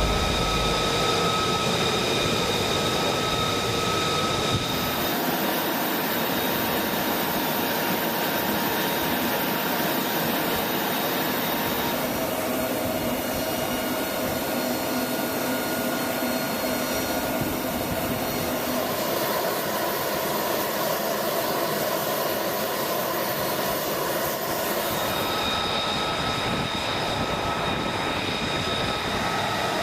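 Steady turbine whine and rushing noise of an AH-64 Apache helicopter's twin turboshaft engines, with several high, steady whining tones. The sound changes character abruptly about four and a half seconds in and again near the end.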